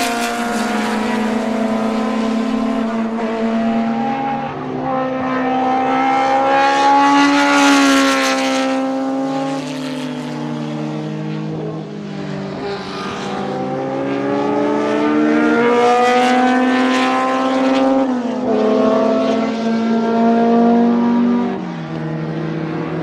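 BMW M12/7 two-litre four-cylinder Formula 2 racing engine at high revs, its pitch climbing hard and then dropping sharply at gear changes, several times over. The sound swells loudest around a third of the way in and again about two-thirds through.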